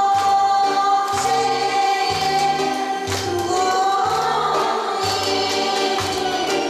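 A song sung over an accompaniment track: long held vocal notes over a steady bass line and regular beat.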